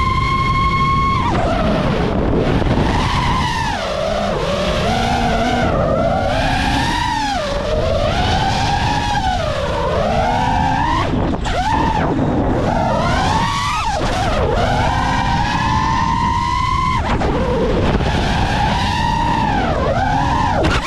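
Five-inch FPV quadcopter (iFlight Nazgul5 V3) with Ethix Peanut Butter and Jelly props: the brushless motors' whine holds a steady pitch for about a second, then swoops up and down again and again as the throttle changes during freestyle flying, with another steady stretch in the middle. Wind rush on the onboard GoPro's microphone runs underneath.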